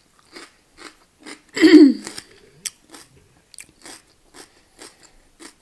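Crunchy food being chewed close to the microphone, a steady run of crisp crunches at about two a second. About one and a half seconds in there is a short voiced hum from the eater, the loudest sound here.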